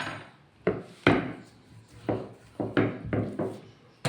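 Kitchen work while making pastry: about six short knocks and clatters as things are set down and handled on a wooden surface.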